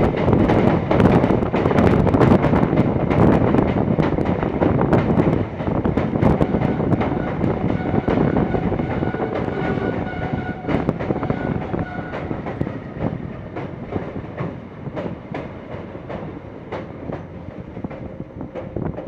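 Express passenger train rolling past, its wheels clattering rapidly over rail joints, the sound fading steadily as it moves away.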